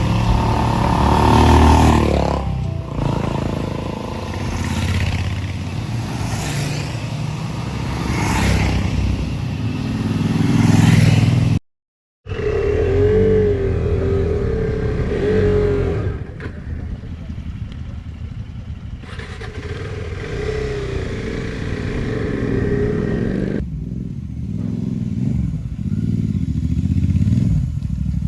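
Motorcycle engines running on the road, mixed with wind and road noise. The sound drops out completely for about half a second roughly twelve seconds in, then the engine noise returns with a steadier, wavering drone.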